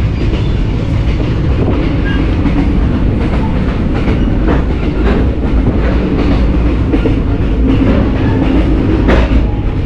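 Running noise of a TAZARA passenger train heard from inside the coach: a steady heavy rumble with wheel-and-rail clatter and a few sharp knocks.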